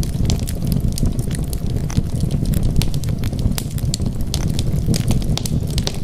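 Wood fire burning: a steady low rumble of flames with frequent sharp crackles and pops scattered irregularly throughout.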